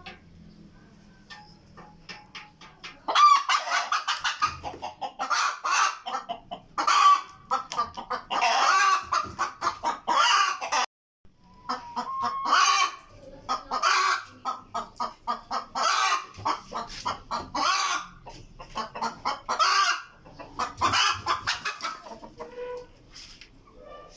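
Hen cackling loudly in a long run of repeated calls, the egg-laying cackle a hen gives around laying. The calls start about three seconds in, break off briefly about eleven seconds in, and fade near the end.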